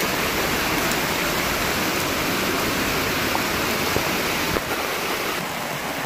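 Steady, dense rush of flowing floodwater.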